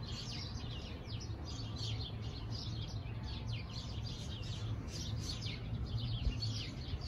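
Birds chirping steadily, a dense run of short, quick chirps, over a low steady hum.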